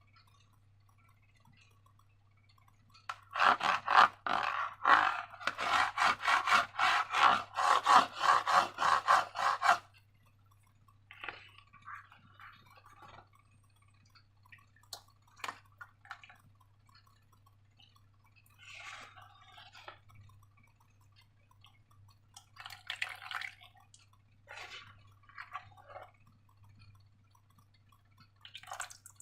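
Slime being squeezed and worked by hand: a rapid run of wet, crackling squelches for several seconds, then scattered single squishes.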